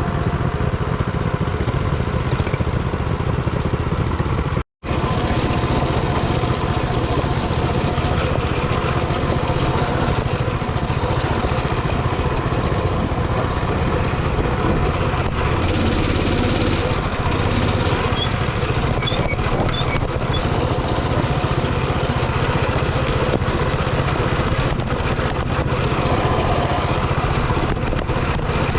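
Coleman mini bike's single-cylinder Predator 224 engine running steadily under way, with a momentary dropout in the sound about five seconds in.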